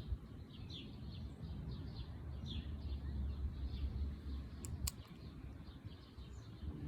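Birds chirping over and over in short, falling chirps, over a steady low rumble.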